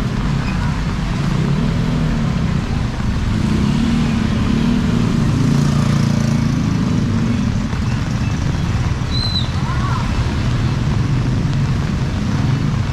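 Motor vehicle engine running steadily amid constant street noise, its low hum strongest in the first half.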